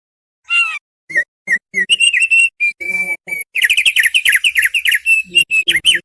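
Thick-billed white-eye (opior paruh tebal) singing. A fast, varied run of whistled and chattering notes starts about half a second in and becomes a dense, rapid stream in the second half.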